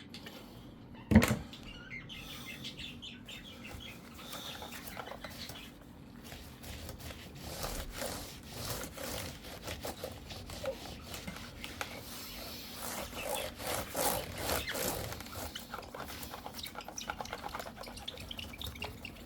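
Wiping and rubbing over the plastic base of an HP Pavilion G6 laptop while cleaning it, in many short scratchy strokes. There is a single sharp knock about a second in.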